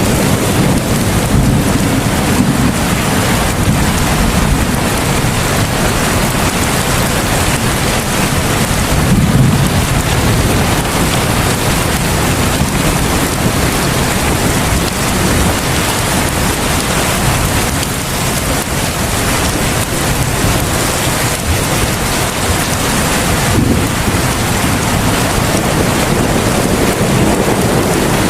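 Heavy rain falling steadily in a dense, even hiss, with a deeper low swell about nine seconds in.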